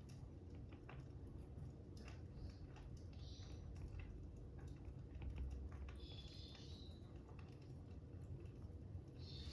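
Stylus tapping and scratching on an iPad's glass screen in handwritten note taking, a few short strokes about 3, 6 and 9 seconds in, over a crackling fire with scattered small pops and a low steady rumble.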